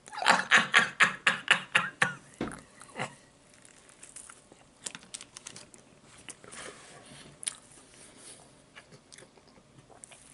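A man chewing a mouthful of chicken club sandwich close to the microphone, with a quick run of loud chewing strokes, about four a second, over the first three seconds, then quieter scattered chewing clicks.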